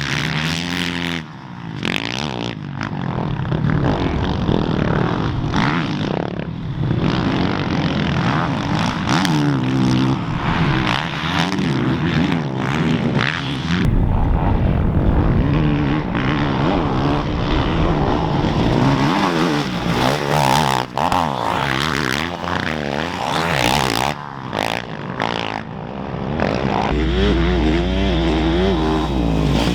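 Dirt bike engines revving through a race, their pitch climbing and dropping again and again as the riders work the throttle and shift.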